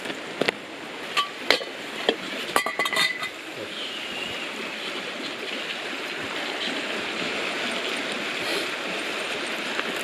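A few sharp clinks and knocks of handled gear, one of them with a short metallic ring, over the steady rush of a flowing river.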